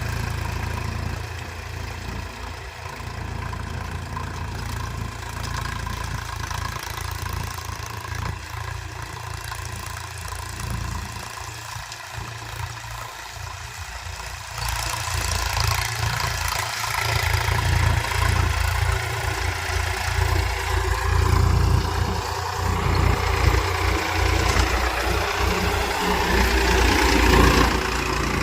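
Sonalika tractor's diesel engine running, growing louder about halfway through and staying louder.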